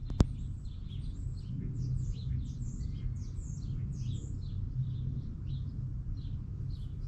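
Songbirds chirping, a quick run of short falling chirps repeated throughout, over a steady low background hum. A single sharp click comes just after the start.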